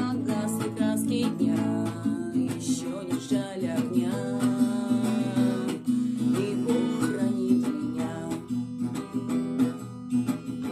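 Music: an acoustic guitar strummed as accompaniment to a song.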